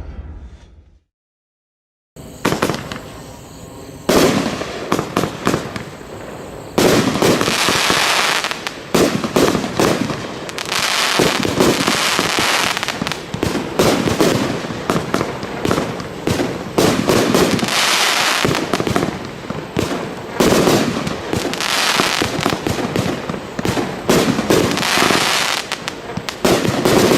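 A 25-shot firework cake with 30mm tubes (Diamond Fireworks Devils Disco) firing: silent for about two seconds after lighting, then a first shot and another a couple of seconds later, followed by a rapid run of shots and bursts with crackling that keeps going.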